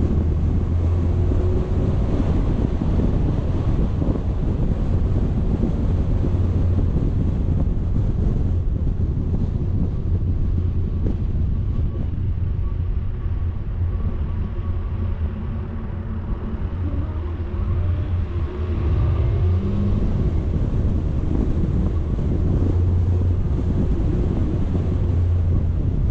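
A vehicle driving along with a steady low rumble of engine and road noise, mixed with wind buffeting the microphone.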